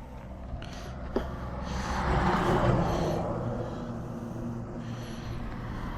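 Low motor-vehicle rumble that swells and fades between about two and four seconds in, with a single sharp click about a second in.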